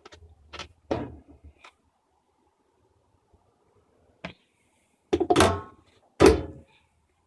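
Parts of a 1983 GE Filter-Flo washing machine being handled: a few light clicks and knocks in the first second or so, a sharp click a little past four seconds, then two heavy thunks near the end, each with a brief ring.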